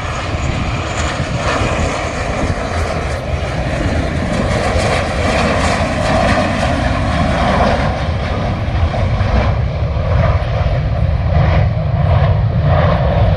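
Loud, steady aircraft engine noise from a fixed-wing aeroplane passing on or near the runway. A deep rumble swells slightly through the middle and latter part.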